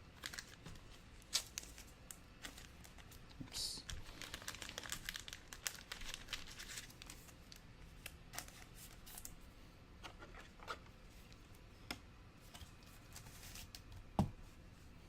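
Trading cards and their plastic packaging being handled: faint crinkling and rustling with scattered small clicks, busiest a few seconds in, and a single dull knock near the end.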